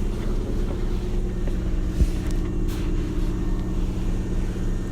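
Running sound inside a Hankyu 7000 series electric train car: a steady low rumble and drone from the motors and wheels, with a single thump about two seconds in.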